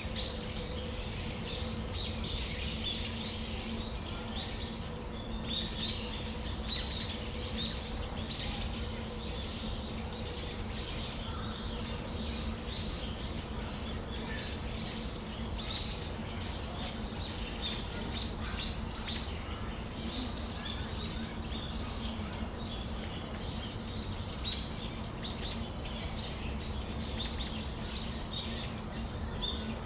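Brown-eared bulbuls calling: many short, high chirps following one another without a break, over a steady low hum.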